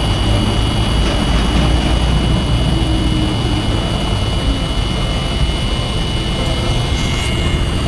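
Truck engine running steadily, with a thin steady high whine over it.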